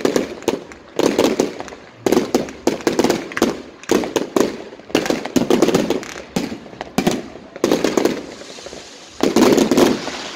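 Fireworks going off in rapid volleys of sharp cracks and booms, coming in dense clusters with short lulls between them.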